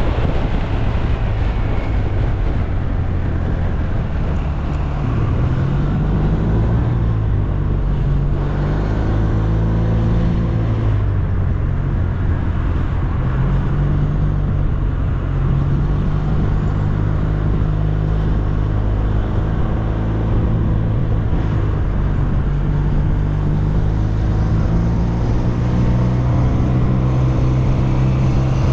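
SYM Maxsym TL 508 maxi-scooter's parallel-twin engine running under way. Its pitch rises and falls several times with the throttle, over steady wind and road noise.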